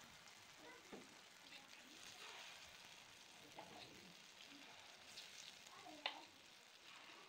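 Moong dal batter pakodas frying in hot oil in a pan: a faint, steady sizzle and crackle. A single sharp tap comes near the end.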